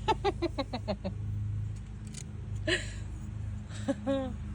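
Siberian husky vocalizing: a rapid run of short yips that trail off in the first second, then a single drawn-out whine that dips and rises in pitch near the end, over a steady low hum.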